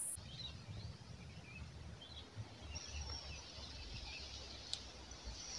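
Faint outdoor ambience: scattered small bird chirps over a low, steady rumble.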